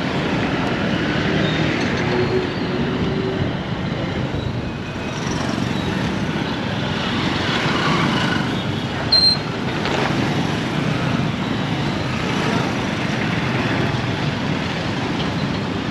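Steady city road traffic: the mixed noise of cars and other vehicles running and passing, with a short high-pitched beep about nine seconds in.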